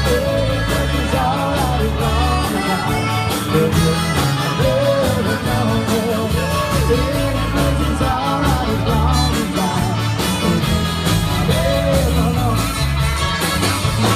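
Live Tex-Mex band playing loudly, a wavering accordion-like melody over bass and drums.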